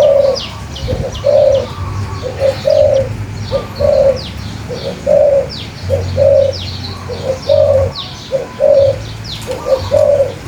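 A dove cooing over and over: a short note followed by a longer one, repeated about every second and a quarter. Small birds chirp in quick, high, downward-sliding notes throughout.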